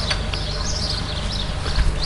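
Birds singing in quick repeated chirping phrases, over a steady low rumble.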